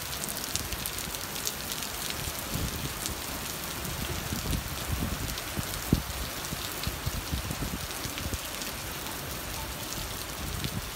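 Heavy rain falling on a flooded street: a steady hiss with many small drop ticks, and a single sharp knock about six seconds in.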